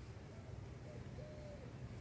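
Faint bird calls, a few short cooing notes, over a low steady background rumble.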